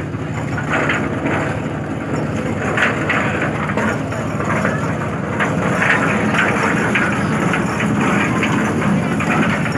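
Steady low engine hum of a docked passenger ship, with a busy clatter and murmur of people over it.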